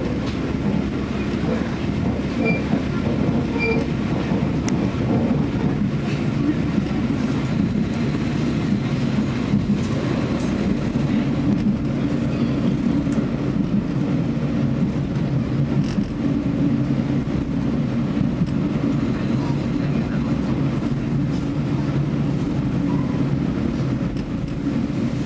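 Train running steadily on the rails: a continuous low rumble with a few faint clicks.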